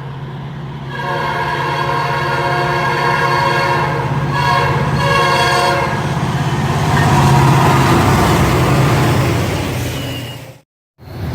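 Train horn on a diesel locomotive sounds a long blast and then two shorter ones over the engine's steady rumble. The train then passes loudly, and the sound cuts out suddenly for a moment near the end.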